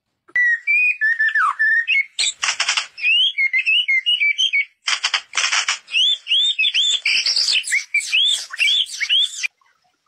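A songbird singing a run of varied whistled phrases that rise and fall, broken by two harsh rasping bursts about two and five seconds in. The song starts and stops abruptly.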